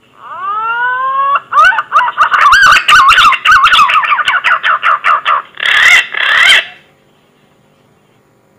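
Punai (green pigeon) lure call: one rising whistle, then a loud run of quick, wavering whistled notes, ending in two coarser notes about six seconds in. The loudest notes crackle.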